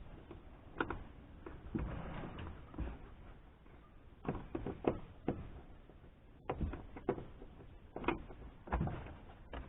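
Scattered sharp clicks and knocks with some rustling, as plastic interior trim and the headliner of a kei car are worked loose by hand.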